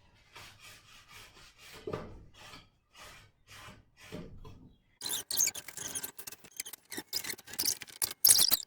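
Paintbrush bristles scrubbing across a painted wooden birdhouse: soft strokes about twice a second, then from about five seconds in a faster, louder run of quick scratchy strokes.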